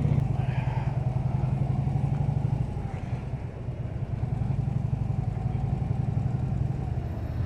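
Harley-Davidson V-twin touring motorcycle engine running on the road, a steady low pulsing rumble that eases off briefly a few seconds in, then picks up again.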